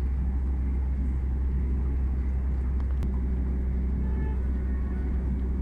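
Steady low rumble of a Northern Class 170 Turbostar diesel multiple unit running at speed, heard from inside the carriage, with a single click about three seconds in.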